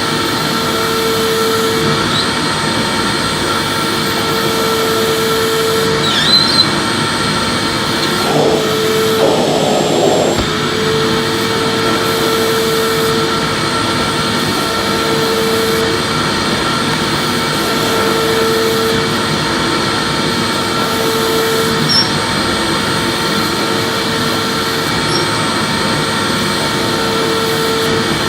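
Electric vacuum cleaner running steadily while vacuuming, with a lower hum that comes and goes every two to three seconds and a few small clicks.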